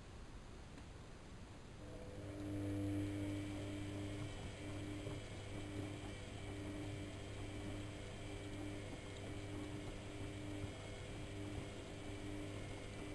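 AEG Electrolux Lavamat L6461 washing machine running during a 95°C boil wash. A steady motor hum with a few even tones starts about two seconds in and keeps going.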